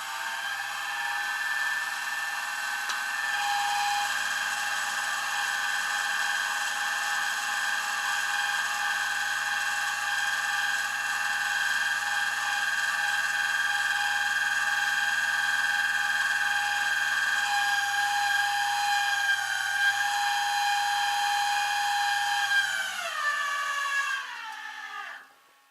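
A motor running with a steady high-pitched whine made of several tones. Near the end it winds down, falling in pitch, and stops.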